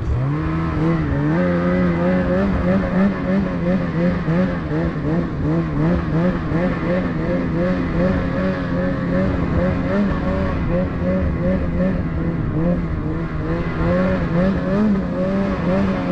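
Gas-powered rope winch engine revving up at the start, then running steadily at high throttle under load as it pulls a snowmobile up the hill, its pitch wavering slightly with the strain.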